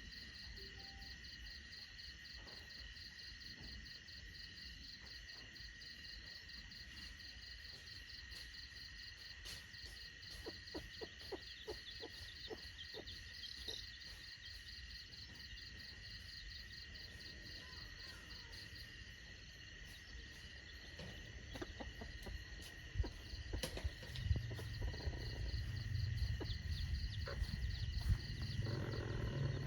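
Insects chirring in a steady chorus of several high, continuous trills, the highest one pulsing rapidly until a little past the middle. A low rumble with a few knocks builds over the last several seconds.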